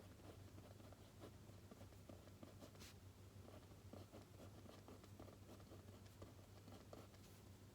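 Faint pen scratching and tapping on paper in quick irregular strokes, with one sharper click about three seconds in, over a steady low hum.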